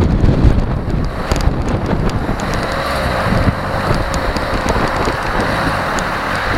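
SsangYong Korando running along a forest track: the engine runs under a heavy rumble with wind buffeting the microphone, and light clicks and knocks are scattered throughout.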